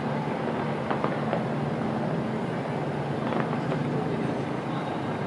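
Fireworks display: a few faint pops and crackles of bursting shells over a steady low background hum, with no single loud bang.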